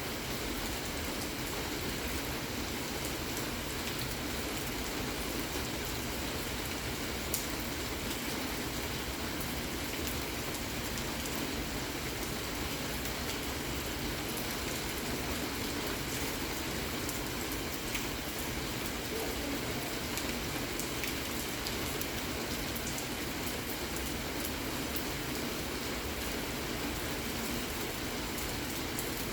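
Steady rain falling, with a dense even hiss and scattered drops ticking on surfaces.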